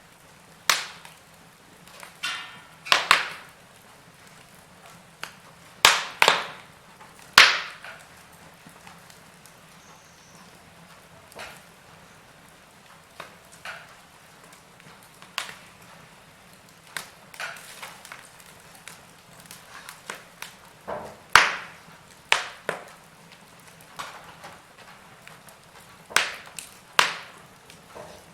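Fireplace fire crackling: irregular sharp pops and snaps, a few much louder than the rest, over a faint steady hiss.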